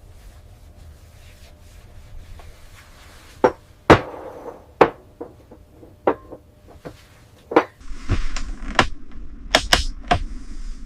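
A series of sharp knocks at irregular intervals, about nine in all, with a steady hiss joining about eight seconds in.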